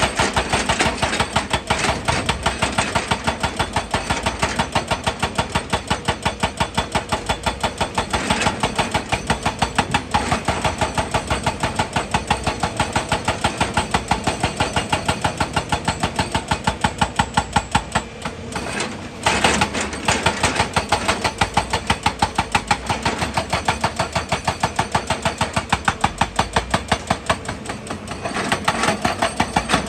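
Excavator's diesel engine running with a fast, even pulse that drops away briefly about two-thirds of the way through, then picks up again.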